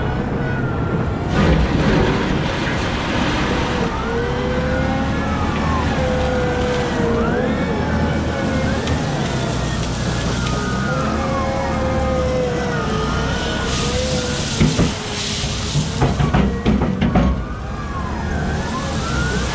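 Caterpillar 972M XE wheel loader working: a steady low engine rumble under a whine from the drivetrain and hydraulics that rises and falls in pitch as the machine moves and lifts. Two loud stretches of clattering, the longer one about 14 to 17 seconds in.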